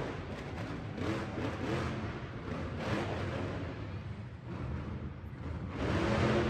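Monster truck engine revving, easing off in the middle and building up loud again near the end.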